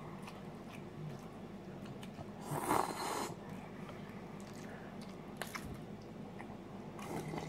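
Close-up eating sounds of a person chewing a mouthful of instant rice noodles, with one brief louder noisy sound about two and a half seconds in and a few light clicks later.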